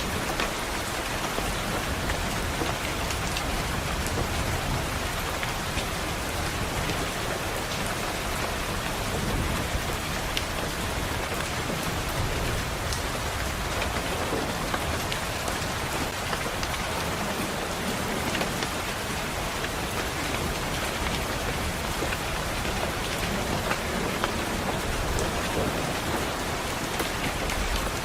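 Steady rain falling against a window, with low rumbles of thunder now and then.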